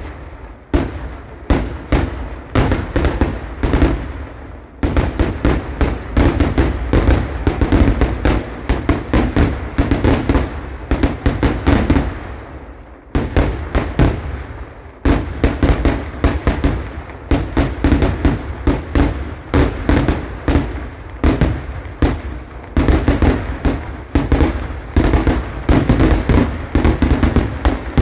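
Fireworks going off in rapid, dense volleys of loud bangs, several a second, with brief lulls about four seconds in and again around thirteen seconds in.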